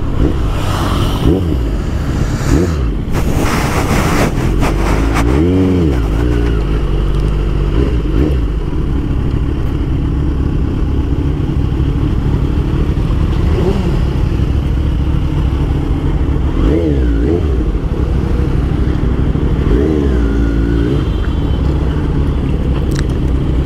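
Motorcycle riding at speed, its engine running steadily under a low rumble of wind noise on the microphone. The engine pitch rises and falls a few times.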